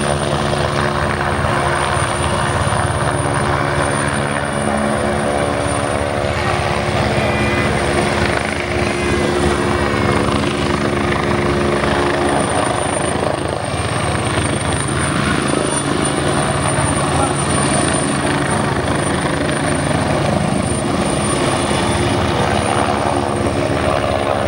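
Helicopter hovering steadily: a deep, continuous hum of rotor and engine drone, with a thin high whine running over it.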